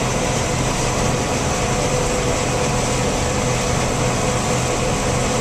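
John Deere combine running steadily while harvesting soybeans, heard from inside the cab as a constant machinery drone with a steady hum.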